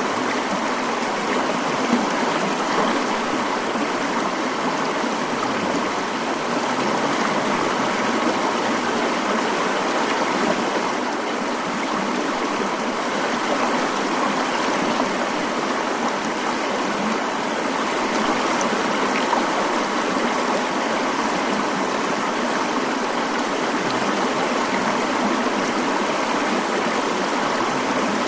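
Mountain stream flowing steadily: an even, continuous rush of water with no breaks.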